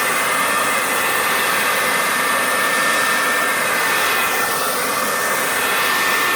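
Remington hand-held hair dryer running steadily, a rush of air with a steady whine over it.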